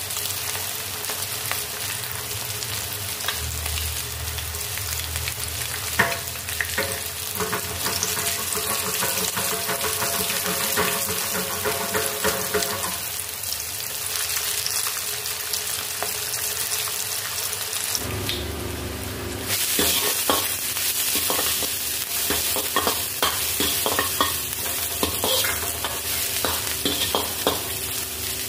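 Battered fish pieces frying in hot oil: a steady sizzle with crackling bubbles. About two-thirds of the way in it gives way to a metal ladle scraping and clicking against a wok as chopped garlic and chillies sizzle.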